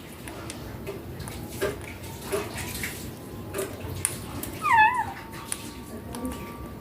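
Young Indian ringneck parakeet giving one short, bending, warbling call about five seconds in. Faint soft chirps and clicks come before it.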